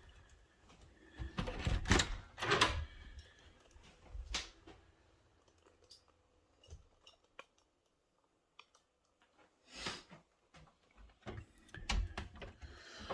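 Scattered knocks and clunks in a small room, loudest in a cluster about two seconds in, with near-silent gaps between.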